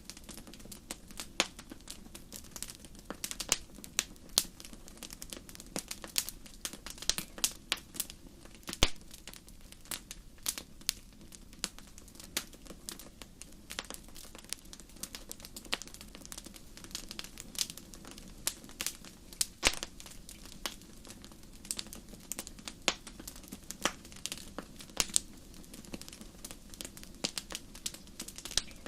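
Wood fire burning with irregular sharp crackles and pops, several a second, over a faint low steady sound of the flames.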